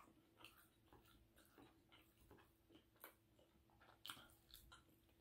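Faint, close chewing and mouth sounds of someone eating French toast with strawberries and bananas: soft wet clicks and smacks at irregular intervals, with a slightly louder click about four seconds in.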